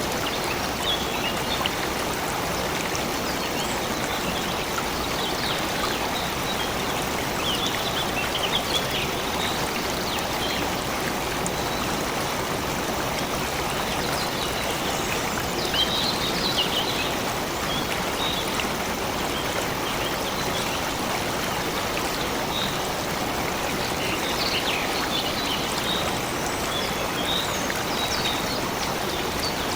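A stream flowing steadily, with small birds chirping in short bouts several times over it.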